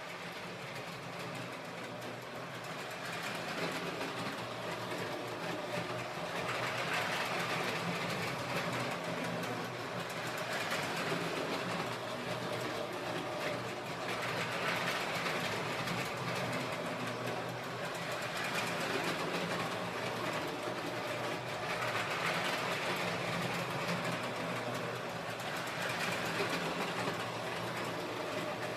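Electric model train running steadily on its track, with small-motor whirring and wheel clatter. The sound swells about every seven to eight seconds as the train comes round a loop.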